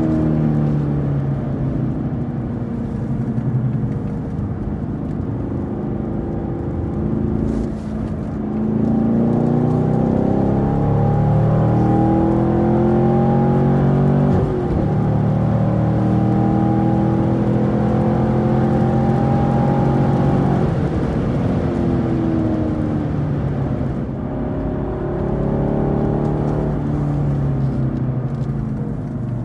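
Camaro SS 1LE's 6.2 L V8 at full throttle on a race track, its pitch climbing through the revs and dropping on each shift or lift, with a sudden drop about halfway through and easing off again near the end.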